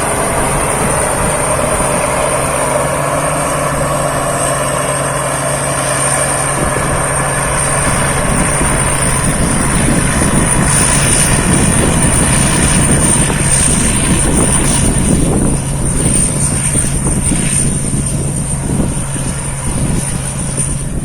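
Thai Seng Yont rice combine harvester running while harvesting: a steady, loud engine drone with a thin high whine above it, growing a little louder and rougher in the second half.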